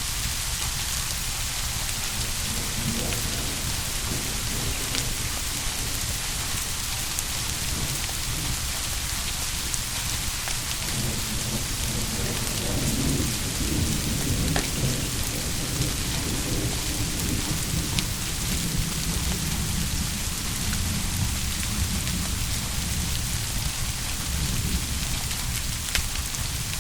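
Steady heavy rain, with a low rolling rumble of distant thunder that swells up about halfway through and fades away.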